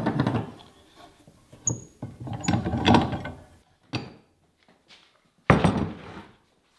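Woodworking clamps being loosened and taken off a glued-up hardwood cutting-board panel: irregular mechanical clicks and clanks, with one loud knock about five and a half seconds in.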